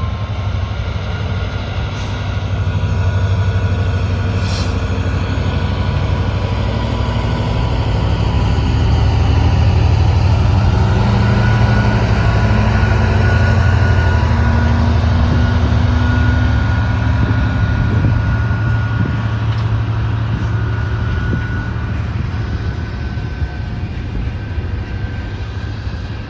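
Direct Rail Services diesel freight locomotive pulling away under load with a heavy train, its engine running hard with a deep steady drone. The engine note swells and rises slightly, loudest about halfway through, then eases as the train moves off.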